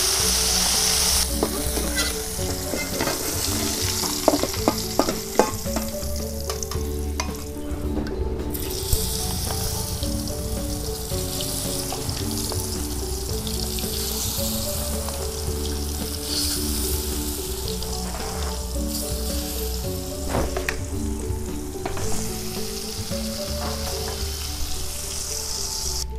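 Salted fish in rice-flour batter deep-frying in hot oil in a wok, sizzling steadily. Several sharp clicks of a metal spoon against the wok and batter bowl come a few seconds in.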